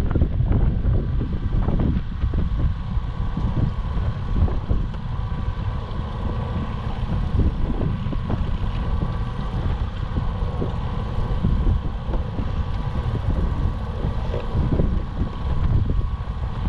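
Gasoline boat motor running steadily at trolling speed, with a faint steady whine, under low rumbling wind noise on the microphone.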